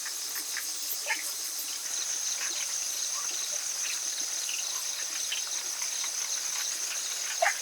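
Rainforest ambience: insects keep up a steady high-pitched drone, with scattered short bird chirps over it and one louder chirp near the end.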